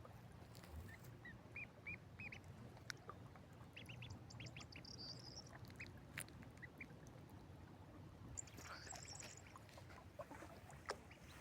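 Faint, high-pitched peeping of ducklings: short chirps coming in small runs, scattered and irregular.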